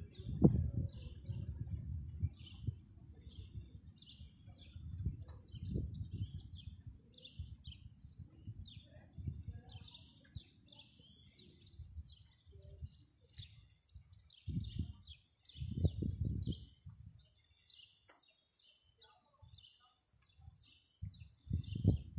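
Small birds chirping over and over, short high calls throughout. Under them an irregular low rumble, heavy in the first half and then in short bursts.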